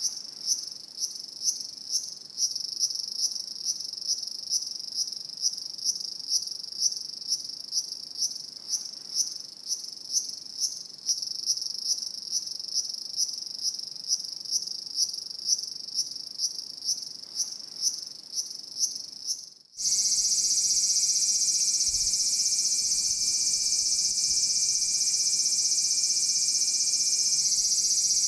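Crickets chirping in even high-pitched pulses, a little over two a second. About two-thirds of the way through, the sound cuts off abruptly and switches to a continuous dense insect trill, a night-time chorus.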